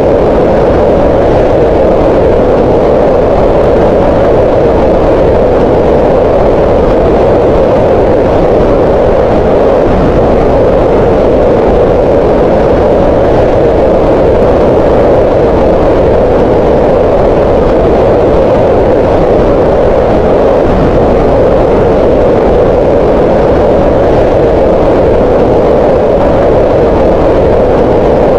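Green noise: a loud, unchanging rushing noise, strongest in the middle of the range, with little hiss at the top.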